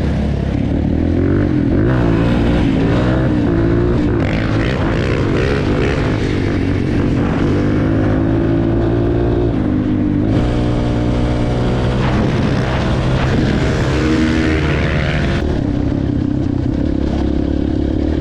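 Four-stroke dirt bike engine under way, its pitch rising and falling as the throttle is opened and closed and the gears change.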